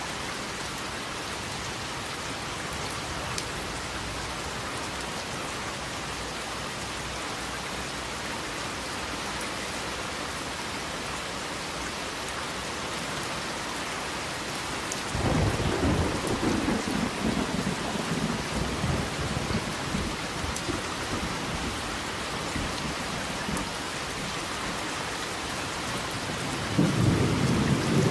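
Steady heavy rain falling, with a clap of thunder about halfway through that rumbles on for several seconds, and another rumble of thunder starting near the end.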